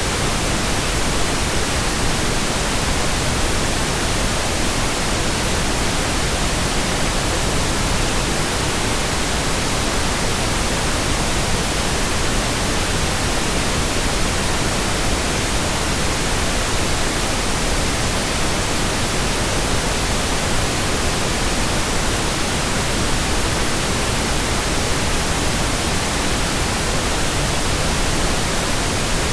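Steady electronic white noise: an even, unchanging hiss across the whole range of pitch.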